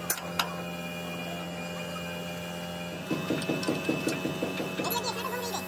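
A steady low hum with two sharp clicks near the start, then about two seconds of rapid mechanical clicking, roughly eight strokes a second, starting about halfway through.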